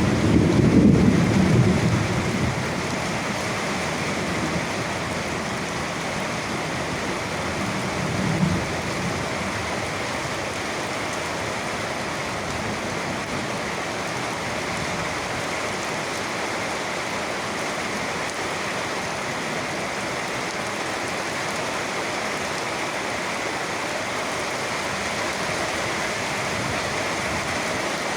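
Steady rain falling, with a roll of thunder dying away over the first couple of seconds and a brief low rumble of thunder about eight seconds in.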